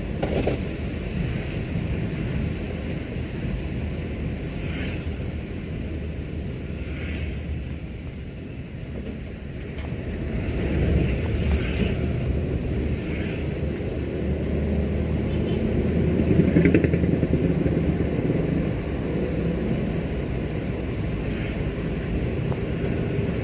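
A car on the move: a steady engine and road rumble that swells about halfway through and is loudest a little past two-thirds of the way in.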